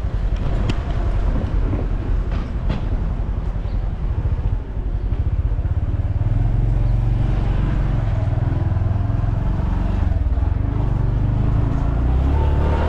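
Motorcycle taxi running as the ride gets under way: a few sharp clicks and knocks in the first three seconds, then a steady low engine and road rumble that swells from about five seconds in.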